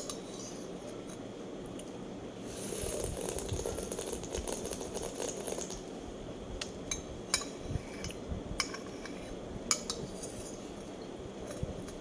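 Tableware clinking: a sharp click at the start, a few seconds of soft hiss, then several separate sharp clinks between about six and ten seconds in.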